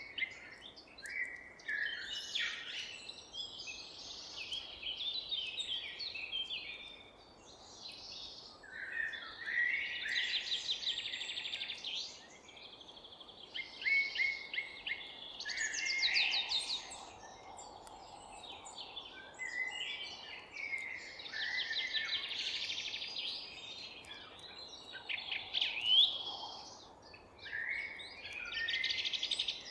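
Several songbirds singing at once in a forest, overlapping whistled phrases and rapid trills. Underneath is a steady, faint background hiss.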